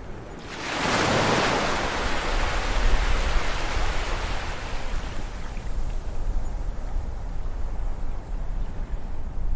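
Sea wave breaking on a beach about half a second in, its wash fading gradually over several seconds, over a steady low rumble of surf.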